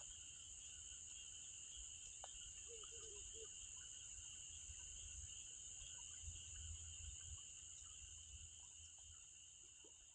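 Faint evening insect chorus, crickets trilling steadily at two high pitches, with scattered faint crackles from the campfire.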